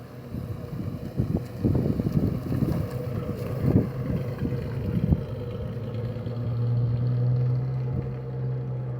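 A vehicle engine running unevenly in the first few seconds, then settling into a steady low idle about six seconds in.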